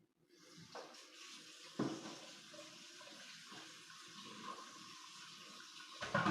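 Water running steadily from a faucet, with a few knocks, and a louder clatter near the end.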